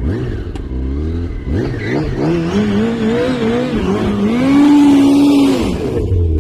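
A motor vehicle's engine, just started, idles, then is revved up and down several times. It holds a higher speed for about a second and then drops back to idle near the end.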